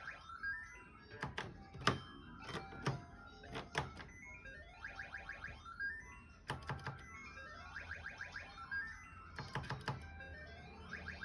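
Electronic mahjong slot machine playing its game music and sound effects: quick runs of stepped chime notes over and over, broken by sharp clicks.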